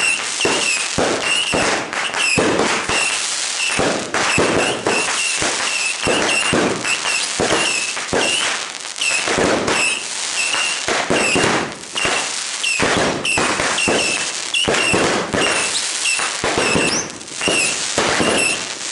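Aerial fireworks fired from the ground in rapid, unbroken succession: a dense run of bangs, pops and crackling, with short high chirps repeating about twice a second.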